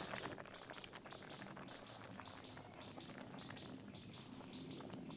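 Small birds chirping faintly and repeatedly, a few short chirps a second, over faint scattered ticks.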